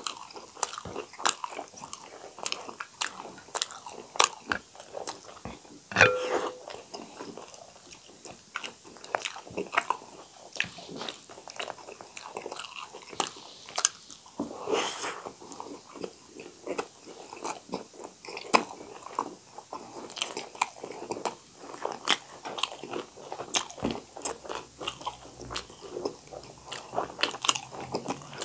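Close-miked chewing of two people eating vegetable momos, with a steady run of short wet mouth clicks and smacks and one louder smack about six seconds in.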